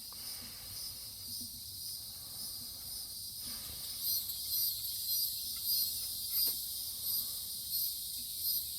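Insects chirring steadily in high continuous tones, with a louder pulsing chirp about twice a second from about four seconds in.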